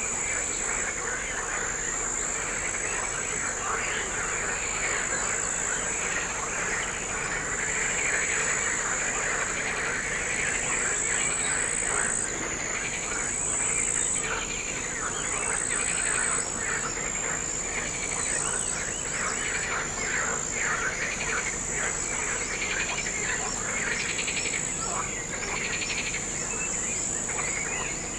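Outdoor animal chorus at the waterside: a steady, high-pitched insect trill runs continuously over a dense mass of short chirping calls.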